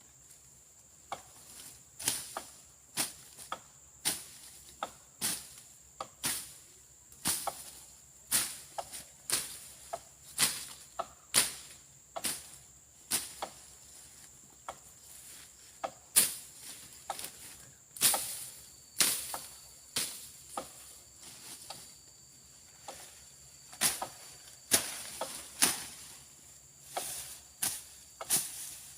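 Brush being slashed by hand with a machete, sharp swishing chops about once a second, some coming in quick pairs. A steady high insect drone runs underneath.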